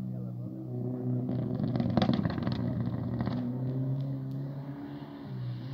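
Mitsubishi Lancer Evo IV's turbocharged four-cylinder engine revving hard, its pitch rising and falling in steps. There is a rougher, crackling stretch about two seconds in, which is the loudest part.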